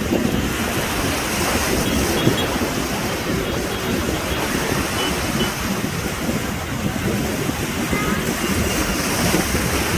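Rough sea surf and wind buffeting the microphone, a steady, noisy rumble.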